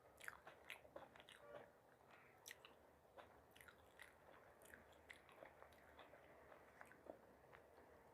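Close-up chewing and biting of food, with irregular soft crunches and wet mouth clicks that thin out in the second half.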